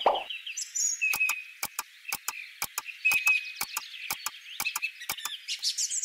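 High warbling chirps of birds over a run of sharp clicks, about four a second. A series of low, evenly spaced plops ends just after the start.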